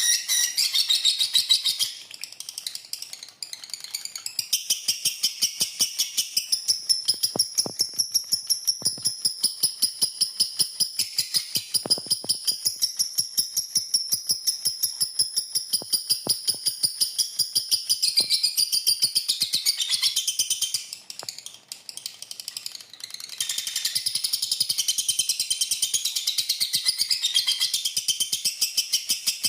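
Lovebird singing a long 'ngekek' chatter: a fast run of high, rapidly repeated notes kept up for many seconds, breaking off briefly about two seconds in and again about twenty-one seconds in.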